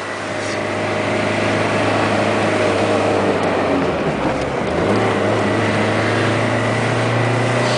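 Citroën AX diesel engine pulling the car uphill, heard from inside the cabin as a steady drone. Its low note changes about four and a half seconds in, then holds steady again.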